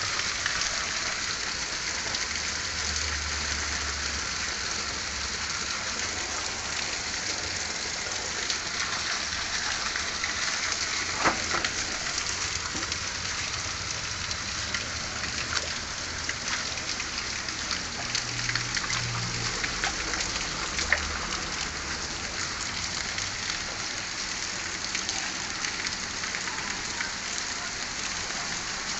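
Steady rain falling on a surface: an even hiss dotted with many small drop ticks, with a few louder ticks about 11 and 21 seconds in.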